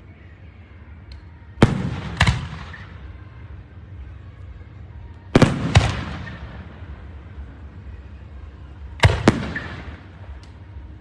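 Fireworks shells bursting overhead: three pairs of sharp bangs a few seconds apart, each bang trailing off as it echoes.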